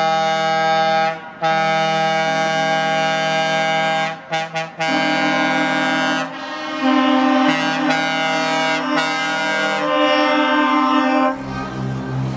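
Truck air horns blowing long blasts, a few quick taps about four seconds in, the chord of notes changing several times. A truck engine comes in near the end.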